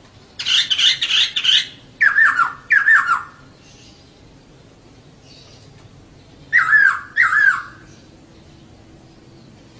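Female poksay (laughingthrush) calling: a harsh chattering burst, then two short down-slurred notes, and after a pause two more down-slurred notes.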